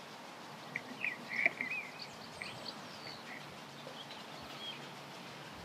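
Small birds chirping over a steady background hiss, with a quick run of chirps about a second in and a few scattered calls after.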